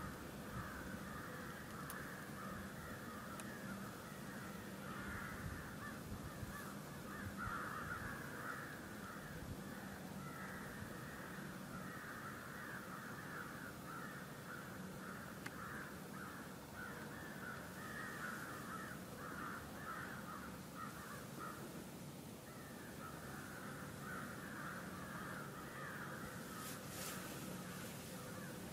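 A flock of birds calling continuously, many overlapping calls at once, with a short lull about three-quarters of the way through.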